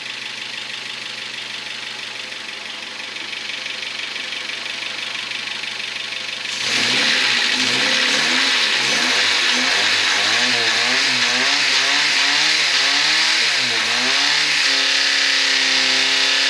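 Renault Clio 1's 1.2-litre four-cylinder petrol engine, running with no oil and no coolant. It idles steadily at first; about six and a half seconds in it is revved hard, the revs swinging up and down repeatedly, then held steady at high revs near the end. It is being run to destruction, and the owner says it is starting to lose compression.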